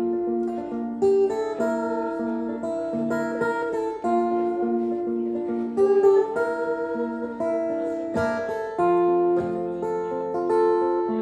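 Acoustic guitar playing an instrumental passage of a song, picked notes ringing in a repeating pattern without singing.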